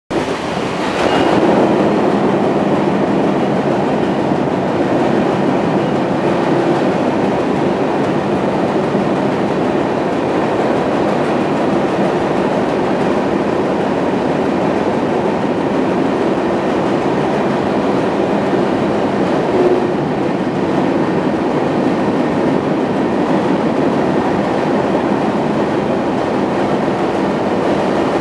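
Freight train rolling through a rail tunnel, heard from on board a car: a loud, steady rumble and rattle of wheels and cars, closed in by the tunnel walls. It grows louder about a second in as the train enters the tunnel.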